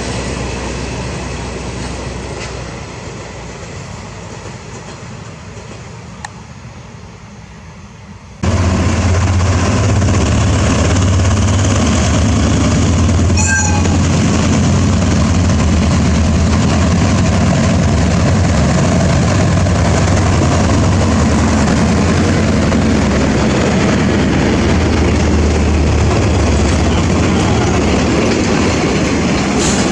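A passing train fades away over the first eight seconds. Then comes an abrupt jump to a loud, steady train running close by, with a strong low engine drone under the rail noise.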